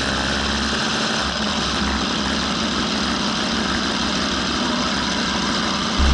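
Aprilia RSV4 Factory's V4 engine idling steadily while the bike stands still.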